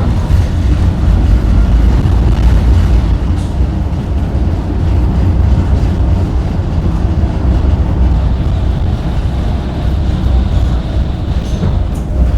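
Tram running along its rails, heard from aboard: a steady, loud low rumble with a few faint clicks.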